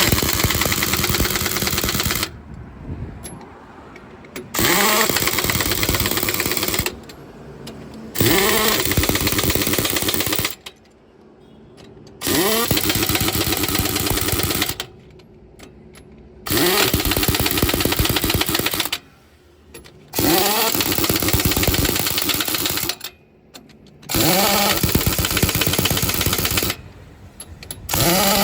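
Pneumatic impact wrench run in repeated bursts of a few seconds, about eight in all. Each burst starts with a rising whine as the tool spins up, then turns to a fast rattling hammer before stopping abruptly.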